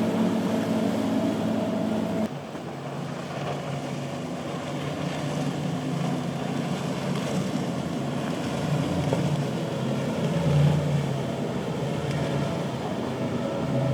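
Motorboat engines running steadily over a hiss of water and wind. About two seconds in the sound changes abruptly to a quieter, lower engine drone, which swells briefly a little past the middle.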